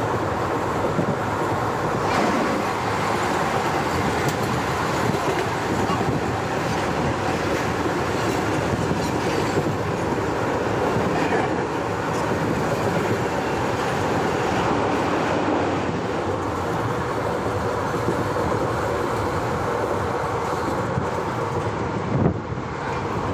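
Indian Railways train running along the track, heard from inside the coach at the window: a steady rumble of wheels on rails with occasional clacks.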